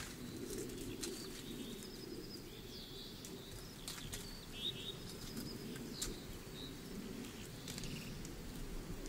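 Small birds chirping with short high calls and a couple of quick trills, over a steady low background rustle, with a few soft clicks scattered through.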